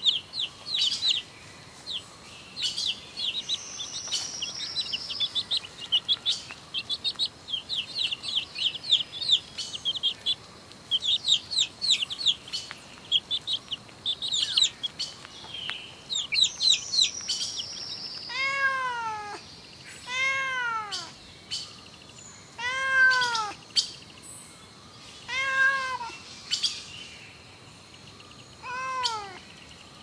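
Baby chicks peeping rapidly in high-pitched chirps for about the first eighteen seconds. Then a domestic cat meows five times, each meow rising and falling in pitch, a few seconds apart.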